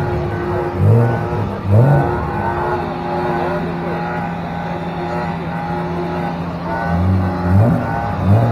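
Car engine revved in quick throttle blips, a few near the start and several more near the end, idling steadily in between.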